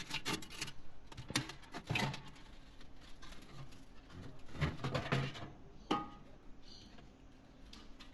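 Scattered knocks and clatters of an oven's metal front panel being worked loose and handled, with a sharper clank about six seconds in that rings briefly.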